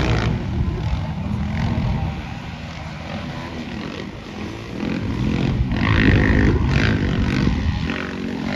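Dirt bike engines revving and changing pitch as the motocross bikes race past, loudest about six seconds in.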